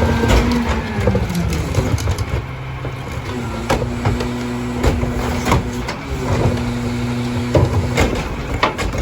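Mack LR rear-loader garbage truck's diesel engine running. Its steady hum drops in pitch about a second in, then comes back and holds. Scattered clanks and knocks sound over it.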